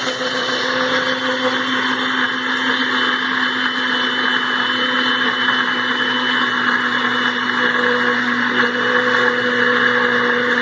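Electric blender running steadily at one constant pitch, mixing a milkshake.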